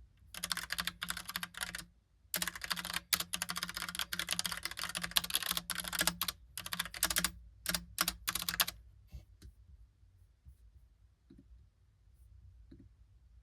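Typing on a Logitech POP Keys mechanical keyboard with round, typewriter-style keycaps: fast, dense key clicks with a short pause about two seconds in. The typing stops at about nine seconds, leaving a few faint scattered clicks.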